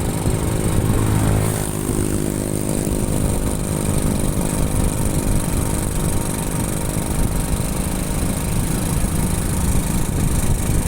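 Motorcycle engine running under way, over steady wind and road noise. The engine note falls about a second or two in as the bike slows or shifts, then runs steady.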